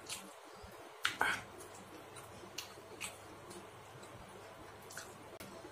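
Eating sounds from chewing a mouthful of instant fried noodles: a few short, wet mouth clicks and smacks scattered through an otherwise quiet stretch.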